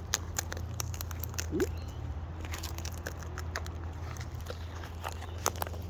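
Wild cockatoos cracking and nibbling seed: scattered small clicks and crunches of beaks, with a brief low rising sound about a second and a half in.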